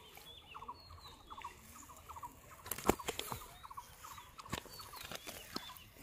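Bird calls repeating: quick clusters of two to four short chattering notes, over thin higher chirps. A few sharp knocks cut in, the loudest about three seconds in.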